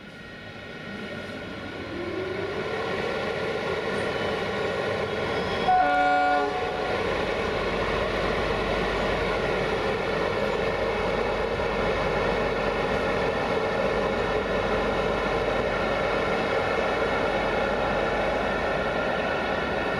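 A train approaching and passing, its running noise growing louder and rising in pitch over the first few seconds. It sounds one short horn blast about six seconds in, the loudest moment, then runs on steadily.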